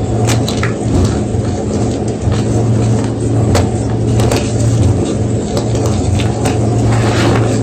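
A steady low hum runs throughout. Over it come scattered, sparse crunching clicks, likely a block of gym chalk being crumbled.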